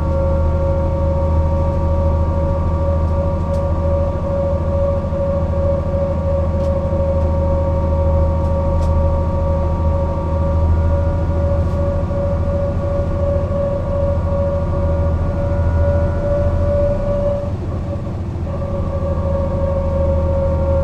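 Mercedes-Benz O 405 NÜ bus driving steadily: a low drone with a steady high whine and fainter overtones above it. Near the end the whine drops out for about a second, the level dips, and then the whine comes back.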